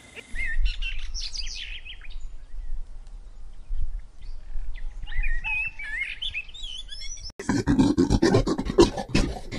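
A songbird chirping in short, quick phrases of rising and falling notes, in two bursts, over a low rumble. About seven seconds in, it cuts to a dog panting rapidly.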